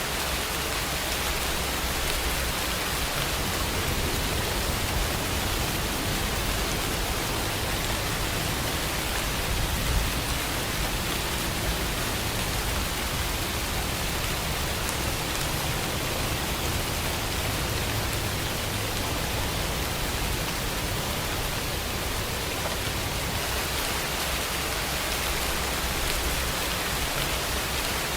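Steady heavy rain falling, an even hiss with a low rumble beneath it and one brief louder drop or tap about ten seconds in.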